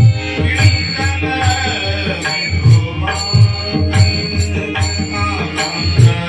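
Marathi Varkari bhajan music: a singer holds a line of the abhang over tabla and a steady beat of metallic hand-cymbal strikes, about three every two seconds, with sustained accompanying tones underneath.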